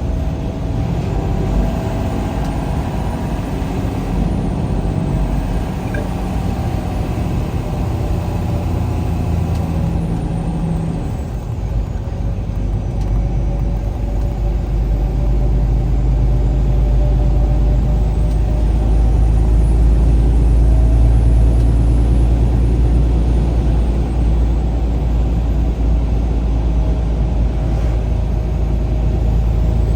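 A road vehicle driving at speed: steady engine and road rumble, with engine tones that drift in pitch, the low rumble growing louder about halfway through.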